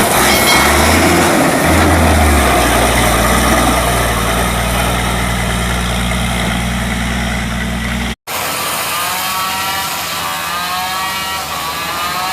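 Heavy truck's diesel engine running with a steady low drone. About eight seconds in the sound cuts abruptly to a higher, wavering engine note.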